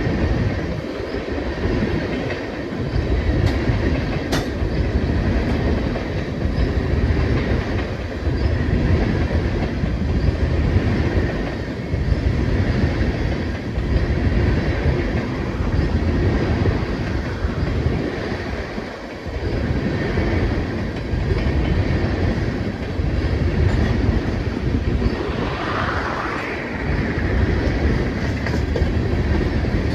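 Freight train cars rolling past with a steady rumble of steel wheels on the rail.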